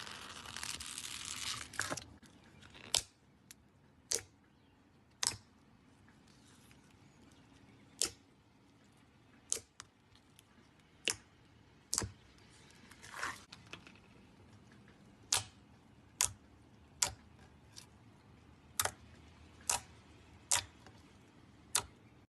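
Slime being squeezed and poked by hand. It crackles for the first couple of seconds, then gives sharp, separate clicking pops about once a second, with a short squelch near the middle.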